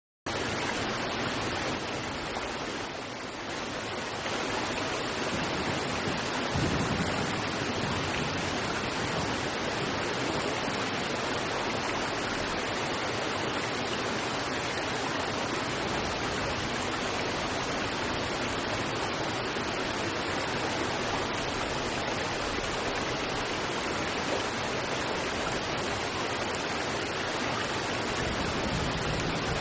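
River water rushing over rocks, a steady even rush.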